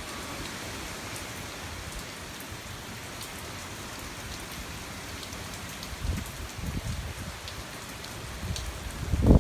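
Steady hurricane rain falling on surfaces, with scattered drop ticks, and a few brief low rumbles of wind on the microphone about six to seven seconds in.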